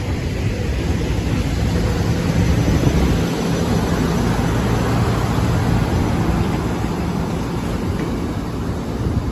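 A train passing close by: steady rolling rumble of wheels on rail with a low hum underneath, swelling about three seconds in.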